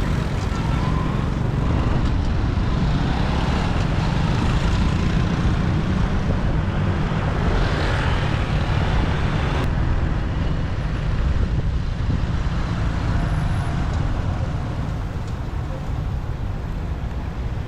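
Steady rumble of a motorbike ride through city traffic: the bike's engine and the surrounding road traffic, easing slightly near the end.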